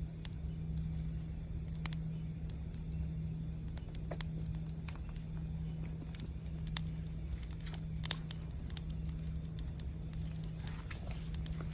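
Campfire burning: a steady low rumble with irregular sharp crackles and pops scattered through. A steady low hum sits underneath.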